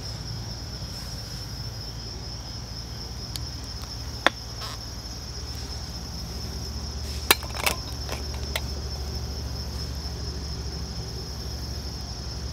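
Crickets chirring in a steady, unbroken high trill, with a few sharp clicks about four seconds in and again around seven to eight and a half seconds.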